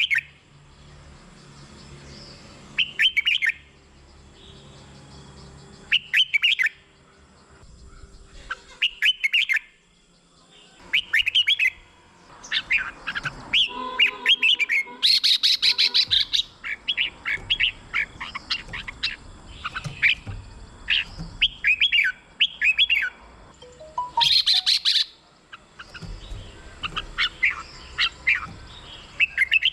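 Red-whiskered bulbul singing: short warbled phrases a few seconds apart, turning into an almost unbroken run of song from about halfway, with two louder, higher bursts.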